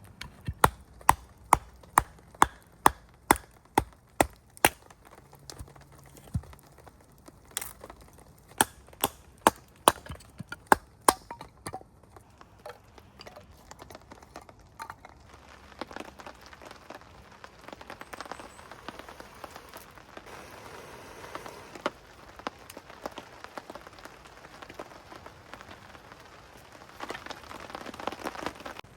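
Two runs of sharp cracks, about two a second, over the first dozen seconds. Then a steady patter of rain that swells near the end.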